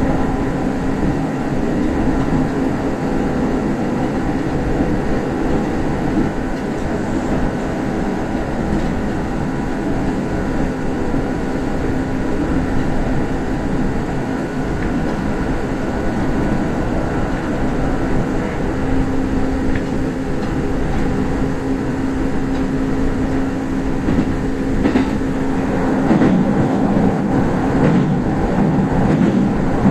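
Kintetsu express electric train running along standard-gauge track, heard from inside the front car: a steady rumble of wheels on rail under a constant motor hum, with a few sharp rail-joint clicks near the end.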